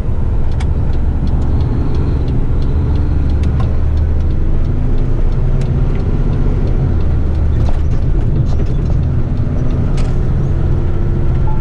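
Diesel engine of an eight-wheeler twin-steer waste truck running under way, a steady low drone whose pitch shifts a few times, with scattered light clicks and rattles from the cab.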